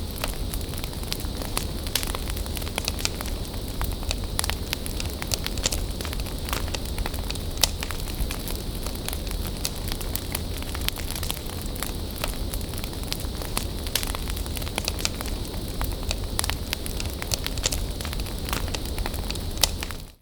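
Wood bonfire burning, with a steady hiss and frequent sharp crackles and pops of the wood.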